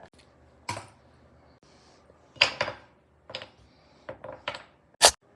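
Scattered clacks and clatters of scrap wood pieces and hand tools being picked up and set down on a workbench, half a dozen or so sharp knocks with the loudest one near the end.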